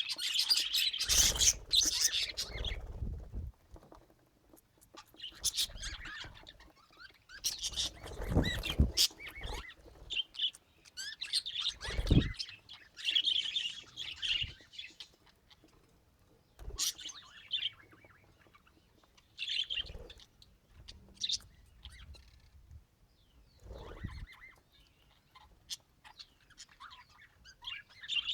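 Pet budgerigars chirping and chattering in short, irregular bursts with quiet gaps between. A few low thumps come in among the chirps.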